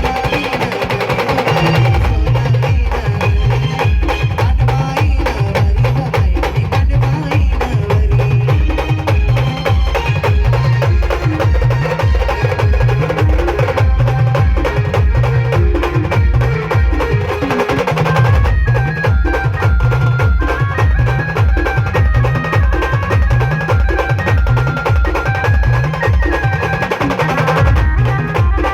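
Live Indian band-party music with a fast, steady, heavy bass beat and percussion, a melody playing over it. The bass beat drops out for the first couple of seconds, then comes back in.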